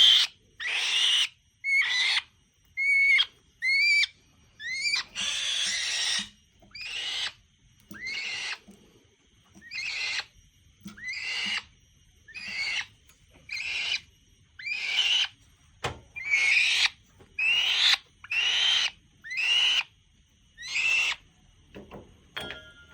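Falcon giving harsh screeching calls over and over, about one a second, each call a short rasping screech. A single sharp click about two-thirds of the way through.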